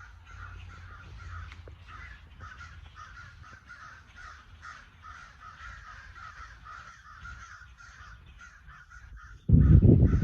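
A large flock of birds in a tree calling constantly, many short overlapping calls forming a dense chorus. Near the end a loud low rumble briefly covers it.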